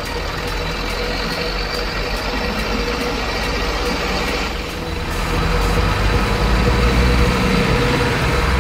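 Remote-controlled model truck running: a steady whine under a low rumble, growing louder about five seconds in.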